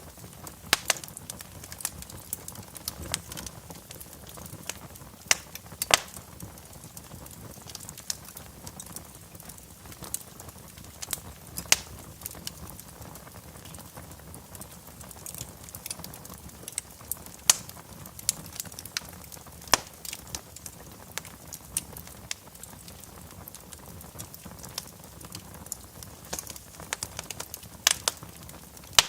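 Wood fire crackling in a fireplace: irregular sharp pops and snaps over a faint steady hiss of burning logs.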